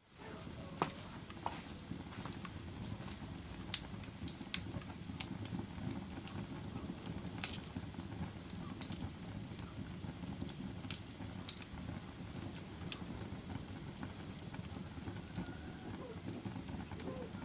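Fire crackling: a steady low rushing noise of the burning, with irregular sharp pops and snaps scattered through it, a few much louder than the rest.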